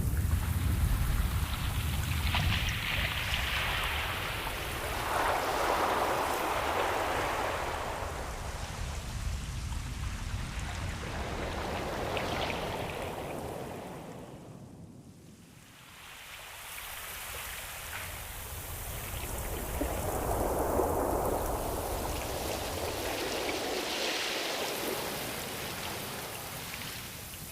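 Ocean surf: waves surging and washing back in slow swells of noise, fading to a lull about halfway through before building again. A low rumble sits under the start.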